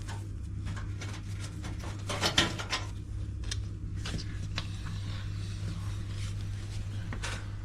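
Scattered clicks and scrapes of a screwdriver and metal screws being worked out of a washing machine's cabinet panels, with a small cluster of knocks a little over two seconds in, over a steady low hum.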